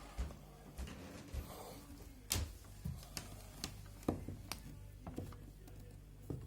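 Footsteps on a parquet floor: irregular short knocks and taps, roughly one or two a second, over a steady low electrical hum.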